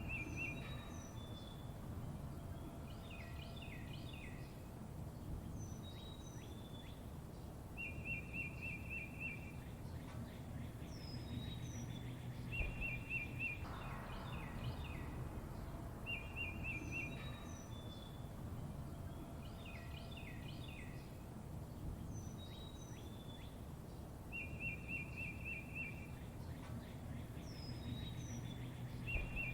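Songbirds chirping over a steady low background rumble: short high down-slurred whistles and quick chirp clusters, with a rapid trill of about a second and a half repeating every few seconds.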